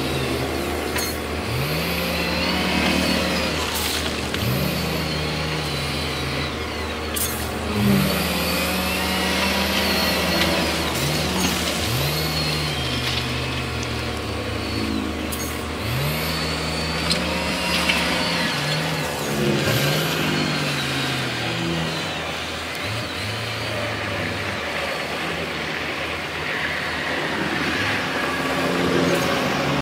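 Diesel engines of heavy earthmoving machines revving up and dropping back again and again, about every couple of seconds, with a faint high whine. A steady low engine drone underneath drops away about two-thirds of the way through.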